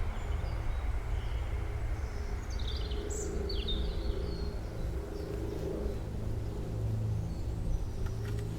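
Woodland songbirds chirping and trilling in short phrases, several close together in the middle, over a steady low hum like a distant engine. A few faint clicks come near the end.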